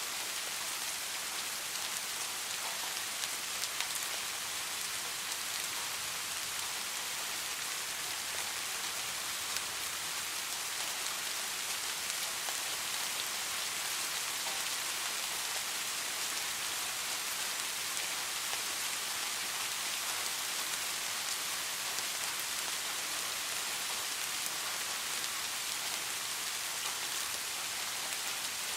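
Steady rain: an even hiss of falling rain with faint ticks of single drops, holding the same level throughout.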